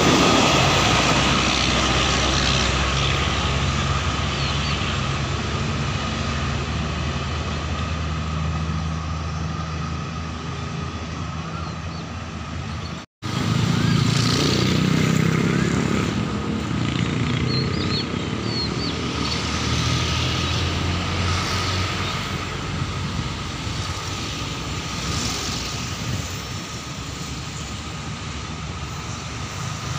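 Passenger coaches of a diesel-hauled train rumbling past on the rails and fading away, then, after a cut about halfway, the low drone of a diesel locomotive approaching from a distance. A steady high tone runs through both parts.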